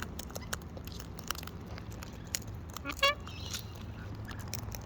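Wild parrots cracking birdseed at close range: scattered sharp clicks and taps, with one short rising squawk about three seconds in, over a low steady hum.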